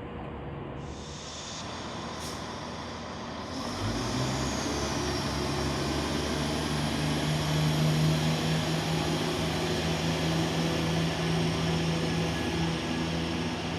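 Diesel train engine running steadily at the platform, starting up louder about four seconds in, with a high hiss of air over it.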